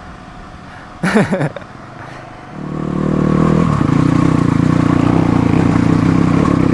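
Motorcycle engine revving up about two and a half seconds in, climbing again a second later and then held at steady high revs. A brief voice is heard about a second in.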